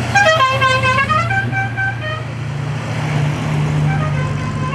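A multi-note musical car horn sounding a short run of stepped notes, then starting another phrase near the end, over a steady low engine note.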